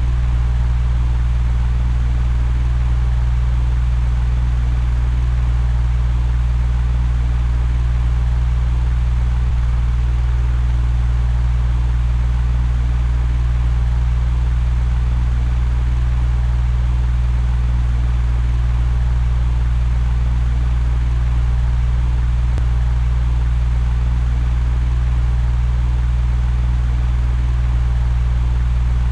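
Electric fan running steadily: a constant low hum with an even rush of air.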